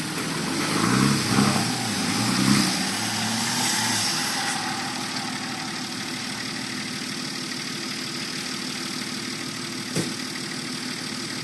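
Vehicle engine revving up and down for the first few seconds, then settling to a steady idle. A single sharp knock comes about ten seconds in.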